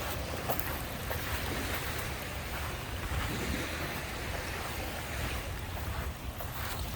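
Lake Michigan waves washing onto the beach, with wind rumbling on the microphone.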